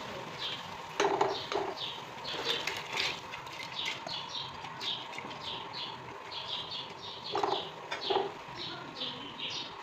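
Small birds chirping over and over, several short high chirps a second, with a few sharp knocks in between.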